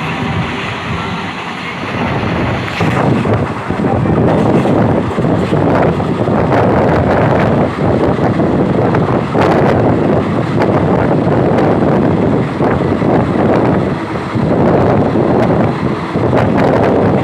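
Passenger train running at speed, heard from on board: a steady rumble of wheels on rail with wind buffeting the microphone. It gets louder about two to three seconds in.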